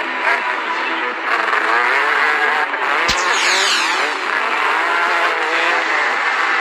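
Several 125cc motocross bikes racing, their engines revving up and down over one another. There is a sharp knock about three seconds in.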